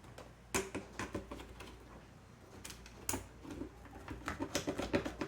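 Irregular sharp clicks and taps of wires and connectors being handled and fastened at a terminal block on an electrical demonstration board, a few single clicks and then a quicker cluster of small ones near the end.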